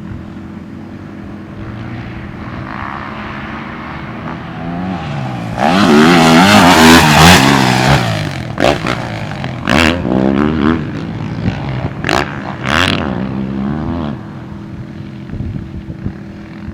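2023 Yamaha YZ450F's 450cc single-cylinder four-stroke dirt bike engine being ridden. It runs low and steady at first, is revved hard for a couple of seconds about six seconds in, then takes several short, sharp throttle blips before settling back to a steady lower drone.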